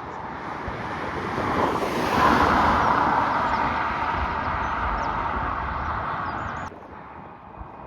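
An aircraft passing close by, its engine noise swelling to a peak about two seconds in and then slowly easing, until it cuts off abruptly near the end.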